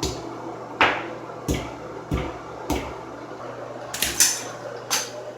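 A series of about eight sharp knocks at an irregular pace, two of them close together about four seconds in, over a steady low hum.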